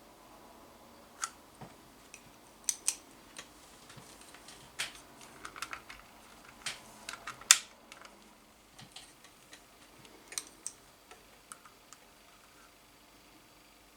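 Irregular sharp clicks and light taps of small hard parts being handled, one every half second or so. They come more thickly in the middle, with the loudest about seven and a half seconds in, and fade out over the last few seconds.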